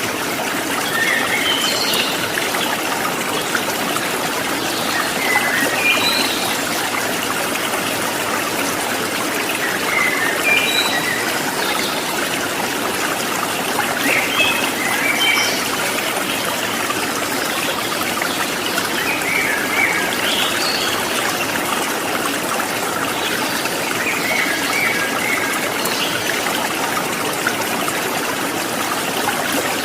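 Water trickling in a stream, a steady splashing, with short bird chirps every few seconds.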